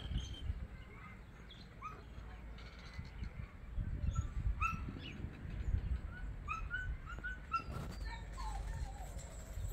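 Birds chirping in short, scattered calls over a low rumble, most of them in the middle of the stretch, with one falling call near the end.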